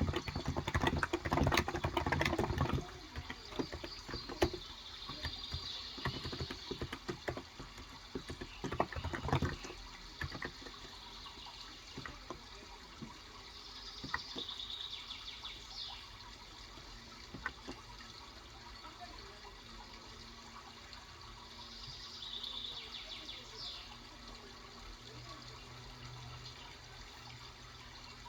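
Typing on a Cox Endeavor 35 g electrostatic capacitive (non-contact) keyboard: a quick flurry of keystrokes at the start, then scattered keys until about ten seconds in. Underneath there is a steady sound of running water, with a few bird chirps now and then.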